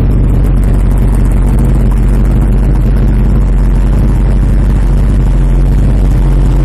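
Small-block Chevrolet V8 in a VW Beetle running loud and steady at an even pitch.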